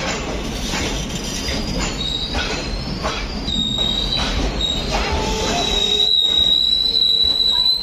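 Indian Railways sleeper coaches rolling past close by as the train pulls out, wheels clicking over the rail joints under a steady rumble. About halfway through a high, steady wheel squeal sets in and grows louder near the end.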